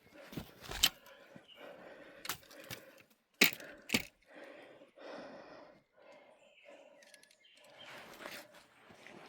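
Footsteps pushing through dry brush, with several sharp cracks of twigs snapping underfoot; the loudest snap comes about three and a half seconds in.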